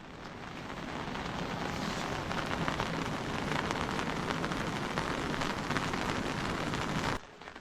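Rain falling steadily, fading in over the first second and cutting off abruptly near the end.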